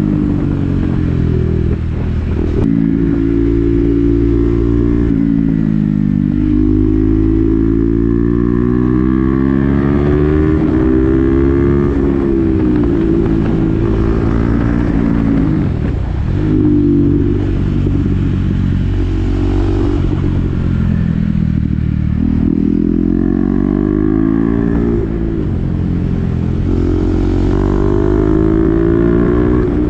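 KTM Duke 390's single-cylinder engine through an SC-Project aftermarket exhaust with the dB killer fitted, heard while riding. The revs climb and fall several times, with sharp drops between the climbs.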